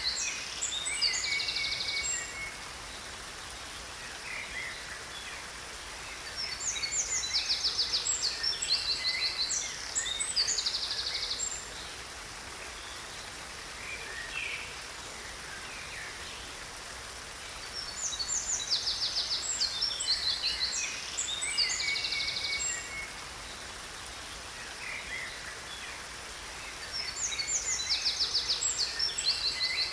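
Songbird singing over the steady rush of a waterfall: phrases of rapid high trills and chirps, each lasting about four to five seconds, come back roughly every ten seconds, with the water running on between them.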